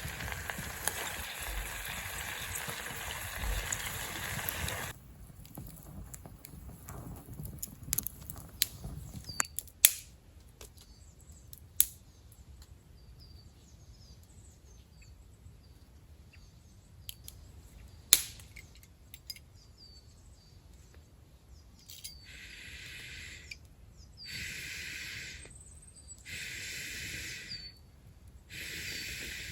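Campfire crackling with a few sharp pops, under faint bird chirps. A steady rush cuts off suddenly about five seconds in. Near the end comes a repeated harsh animal call in four bursts of about a second each.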